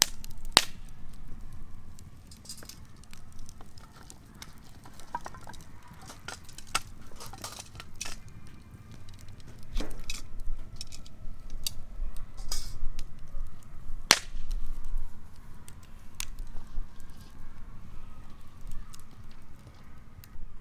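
Camp cookware and tableware being handled: scattered light clinks and clicks, the sharpest about 14 seconds in, over a low steady rumble.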